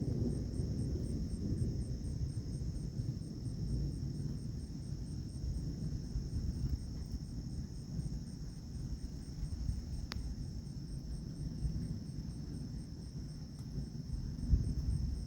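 Insects calling: a steady high buzz together with a rhythmic high chirp about four times a second, over a continuous low rumble. A single sharp click about ten seconds in.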